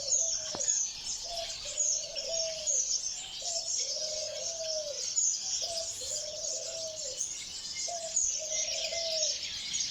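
A diamond dove cooing over and over, each call a short note followed by a longer drawn-out one, about every two seconds. A constant high chittering of many small finches runs beneath it.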